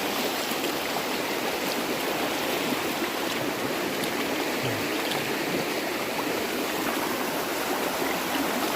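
Floodwater flowing, a steady even rush of water.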